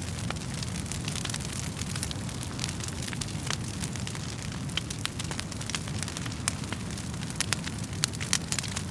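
Wood fire burning in a fireplace: a steady low rumble of flames under irregular sharp crackles and pops from the burning logs, with a few louder pops near the end.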